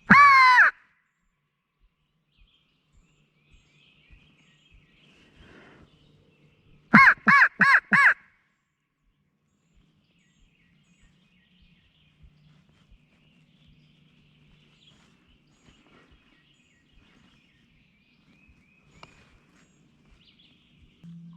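Crow locator call blown loudly: one long caw, then about seven seconds later four quick caws in a row, used to make a gobbler answer.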